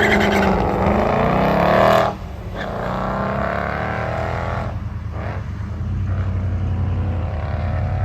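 Engine of a drag-racing car accelerating hard down the strip, its pitch climbing through the gears with a shift about two seconds in and another near five seconds, then settling into a steadier drone.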